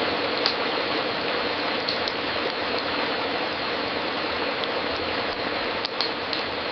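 Fireplace fire crackling: a steady hiss with scattered sharp pops at irregular intervals, a small cluster of them near the end.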